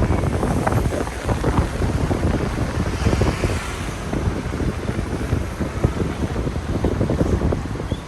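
Wind buffeting the camera microphone in gusts during a rainy street walk, with a brief hiss about three seconds in, typical of a car's tyres passing on the wet road.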